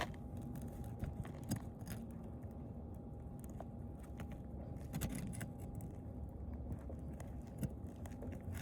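Faint scattered clicks and scrapes of a hand tool prying a cap nail out of asphalt roof shingles, a few seconds apart, over a faint steady hum.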